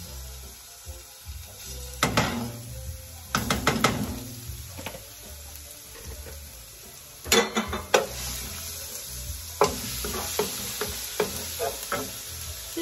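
Minced garlic sizzling in hot cooking oil in a large aluminium pot, a steady hiss throughout. Over it come sharp clatters of a spoon knocking against the pot, about two, four and eight seconds in, then lighter scrapes and taps as it is stirred near the end.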